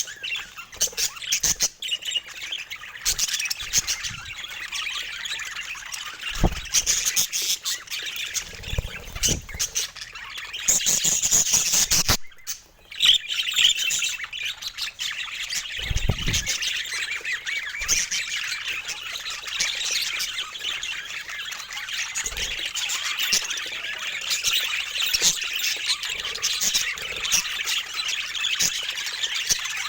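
Budgerigars chattering, warbling and squawking continuously, with a brief break a little after 12 seconds and a few low thumps.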